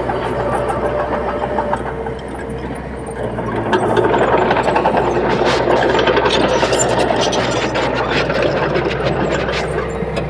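Diesel engine of heavy earthmoving machinery running steadily and growing louder about four seconds in, with many sharp clicks and rattles over the engine sound.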